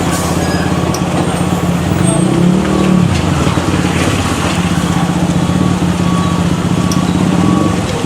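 Heavy truck engine running steadily under load. Its pitch swells up and falls back once, about two and a half seconds in.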